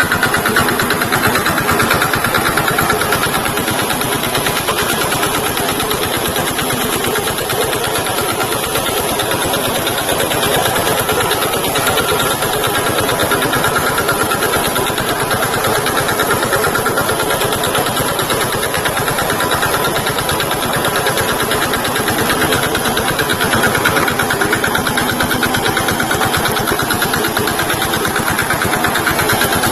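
VST Shakti tractor engine running steadily, its rapid firing pulses even throughout.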